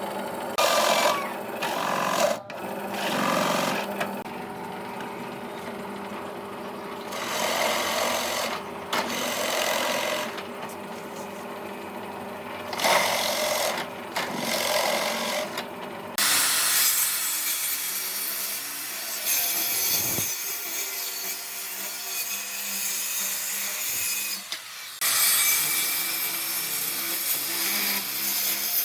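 Power tools working wood, in a run of short bursts a second or two long over a steady motor hum, then a longer continuous stretch from about halfway.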